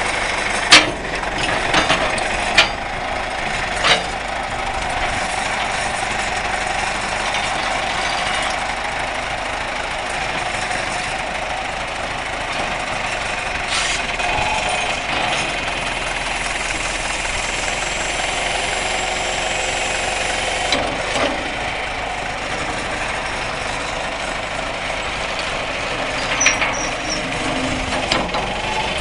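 John Deere 410 backhoe's diesel engine running steadily, with a few sharp knocks early on and again near the end.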